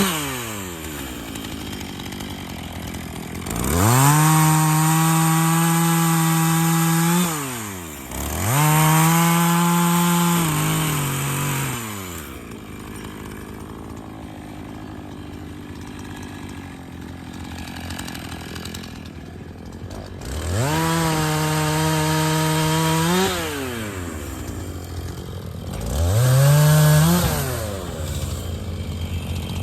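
Two-stroke chainsaw revving up to full throttle and holding there four times, for a few seconds each, dropping back to idle between bursts, while cutting maple trees.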